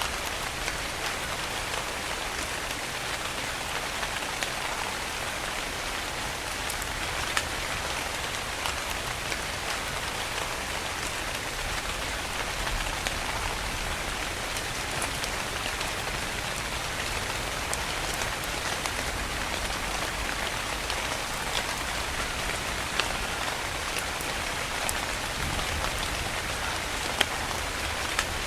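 Steady rain falling, a constant hiss with scattered sharper ticks of individual drops hitting a surface.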